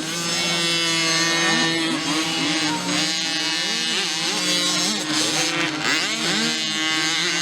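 Several 50cc mini motocross bikes running together, their small two-stroke engines high-pitched: some held at a steady pitch while others rev up and down again and again.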